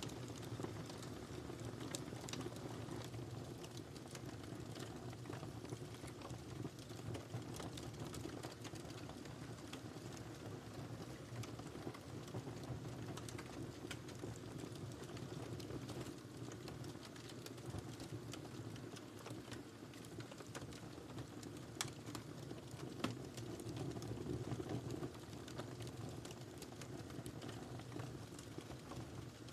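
Wood fire crackling in a fireplace: a steady low rush of burning with irregular sharp pops and snaps throughout, a few louder pops past the middle.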